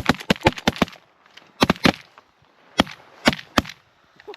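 Several duck hunters' shotguns firing: a rapid volley of about half a dozen shots in the first second, then a short pause and a handful of scattered single shots over the next few seconds.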